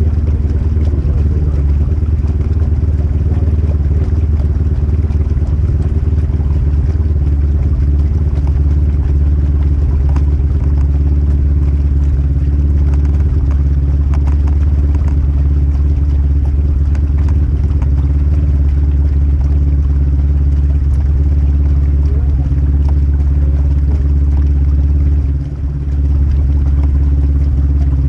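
Polaris RZR 1000 side-by-side's engine running at a steady, even pitch, with a brief drop in level near the end.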